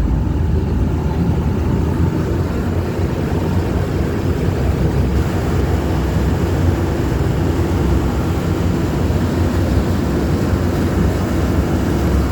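Amphibious duck boat's engine running steadily under load as it drives along, a loud, even low rumble heard from aboard.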